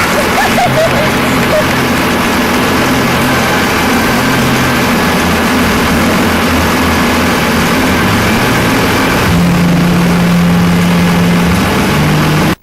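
Modified-class pulling tractor engines running loud and steady, with the pitch stepping up about nine seconds in.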